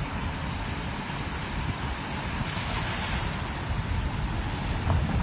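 Car driving: steady low road rumble with wind noise on the microphone, and a faint knock near the end.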